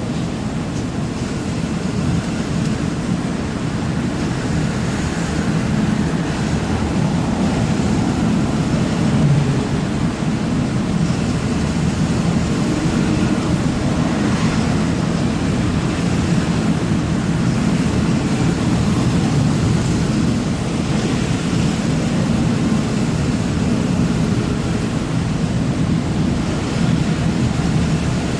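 Truck on the move: steady engine drone and road noise.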